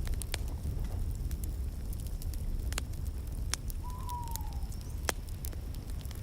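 Wood fire crackling in a fireplace: scattered sharp pops over a steady low rumble. About four seconds in there is one short, falling whistle-like tone.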